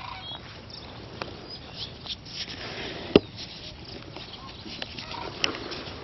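Scattered short bird calls over a steady outdoor background, with a sharp click about three seconds in and a smaller one near the end.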